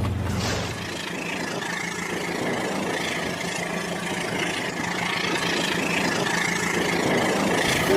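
Battery-powered Rail King toy train running, a steady mechanical running noise from its motor and wheels on the track.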